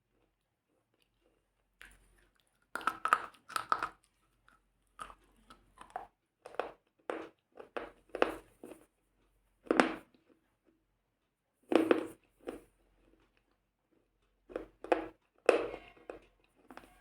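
Crisp crunching bites and chewing close to the microphone, in irregular bursts with short pauses between them, starting about two seconds in.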